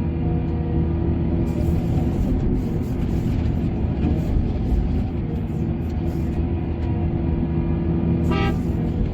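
Heavy diesel machinery running steadily at a mine, with a short horn toot near the end.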